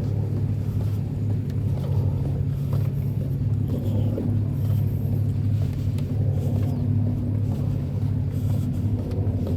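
Steady low mechanical hum, with a constant low drone that pulses slightly throughout.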